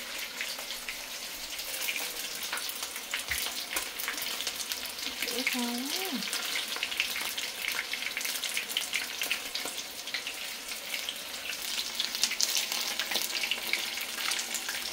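Batter-coated chicken pieces frying in hot oil in a pan: a steady sizzle, full of fine crackles and pops.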